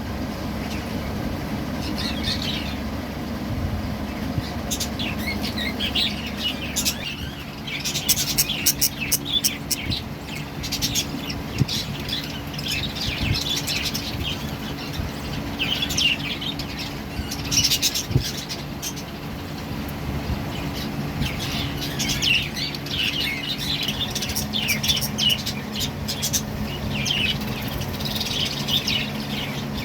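Budgerigars chirping and chattering, many short high calls throughout, with sharp squawks and clicks. A steady low hum runs beneath them.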